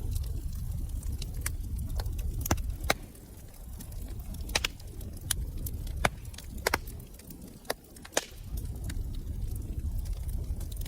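Wood fire in a fireplace crackling, with sharp irregular pops and snaps over a low rumble of burning.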